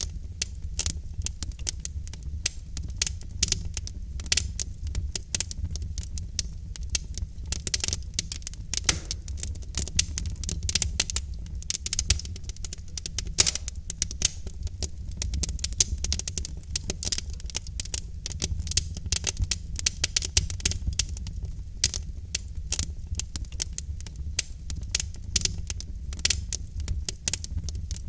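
Log fire in a fireplace crackling: a dense, irregular stream of snaps and pops over a low steady rumble of the flames.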